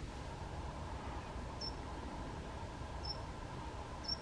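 Four brief, high, thin bird call notes, spaced about a second to a second and a half apart, over a steady low background hum of outdoor noise.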